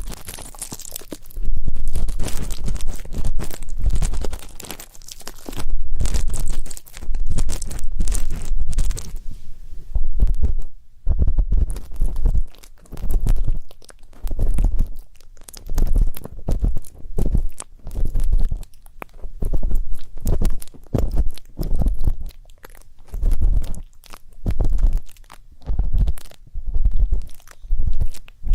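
Ear pick scraping and rubbing in an ear in repeated strokes, close together at first, then after a short pause about one stroke a second.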